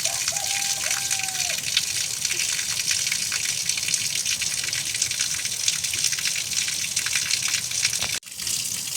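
Steady rush of heavy rain and running water, with many small taps in it. A brief held tone sounds near the start, and the sound cuts out for a moment near the end.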